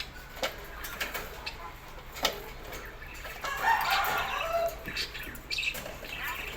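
Birds calling, with a louder burst of harsh, clucking calls a little past halfway, and several sharp clicks or knocks scattered through.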